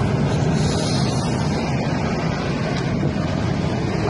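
A 1995 Honda Acty mini truck's small three-cylinder engine running steadily, a low, even engine sound.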